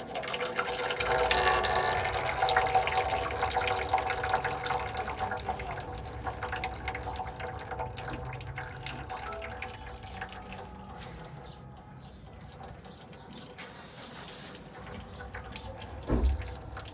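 Liquid running or pouring steadily. It starts suddenly, is strongest over the first few seconds, then eases off, with a short thump near the end.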